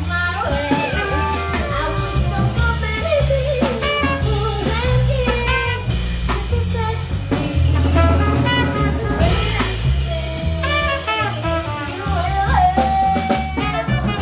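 Small jazz band playing: drum kit with cymbals, a double bass line stepping note by note, and clarinet and trumpet carrying wavering melody lines.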